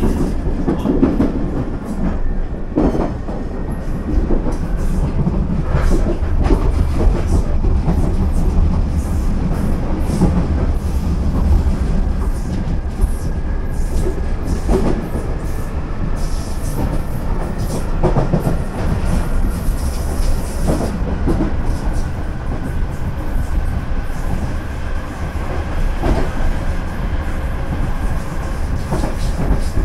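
Inside an Irish Rail DART electric commuter train running along the line: a steady low rumble of wheels on rail, with irregular clacks as the wheels pass over rail joints and a faint high whine in the second half.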